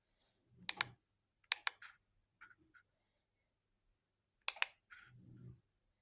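Sharp clicks and light knocks in quick pairs, some with a dull thud under them: one pair about a second in, a cluster around two seconds in, and another pair about four and a half seconds in.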